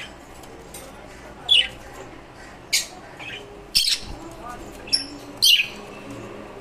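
Pet lovebirds and finches calling: about five sharp, shrill chirps and squawks a second or so apart, several of them sweeping down in pitch.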